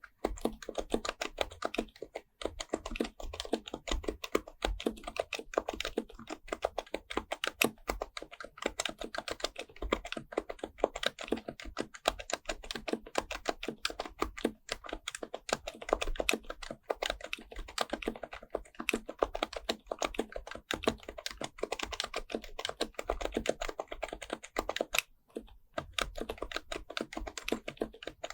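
Continuous fast typing on an HHKB Professional Type-S keyboard with its silenced Topre capacitive key switches: a dense stream of soft keystroke clicks, with a short pause about 25 seconds in.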